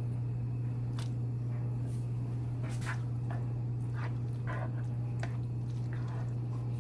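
Noodles being stirred in a pot of Alfredo sauce: scattered soft clicks and squelches of the utensil against the pot, over a steady low hum.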